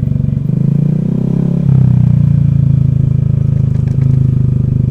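Honda Vario scooter's single-cylinder engine running while being ridden, its note shifting about half a second in, picking up at just under two seconds, then holding steady.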